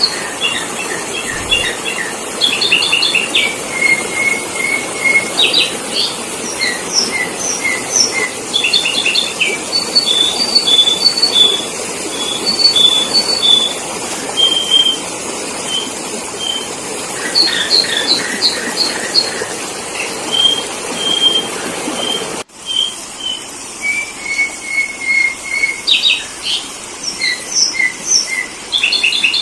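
Sooty-headed bulbul (kutilang) calling: series of short, quick chirps and clipped whistled notes, repeated phrase after phrase over a steady hiss, used as a lure call for wild bulbuls. The sound cuts out briefly about two-thirds of the way through, then the calls resume.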